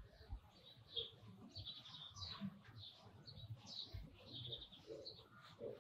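Faint birds chirping in short, scattered calls.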